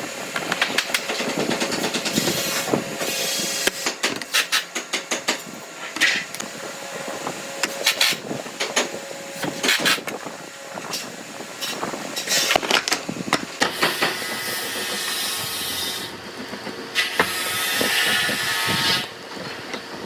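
Workshop noise: something mechanical running, under many irregular knocks and clicks, with two stretches of steady hiss in the second half.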